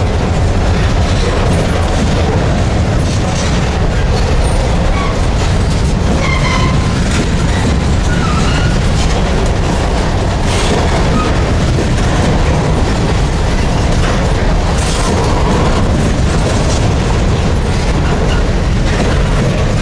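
Norfolk Southern grain train's covered hopper cars rolling past close by: a steady heavy rumble of steel wheels on rail, with clicking as the wheels pass over rail joints.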